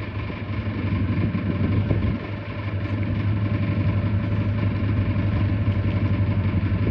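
Boat engine idling steadily with an even, fast low pulse, just started after sitting for a while.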